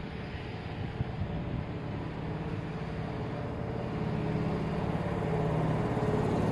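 Electric commuter train running, a steady low drone with a humming tone that grows louder through the second half.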